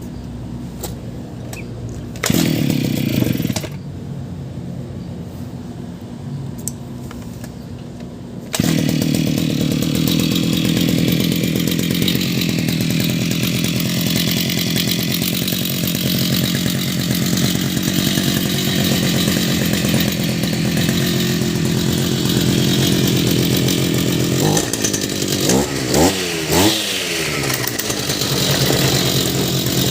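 Brush cutter engine idling, briefly revved about two seconds in, then opened up to high speed at about eight and a half seconds and running steadily. Near the end it gives a few quick revs up and down.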